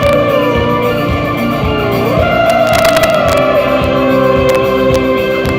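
Live rock band music, loud and continuous, with guitar and a wavering, sliding melody line held over steady sustained notes.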